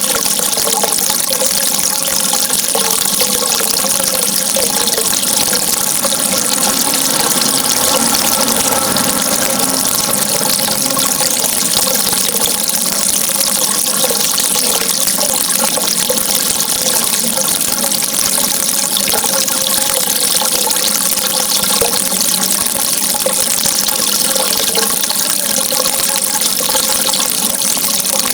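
Flowing water rushing steadily and without a break, a constant hiss with a faint burble underneath.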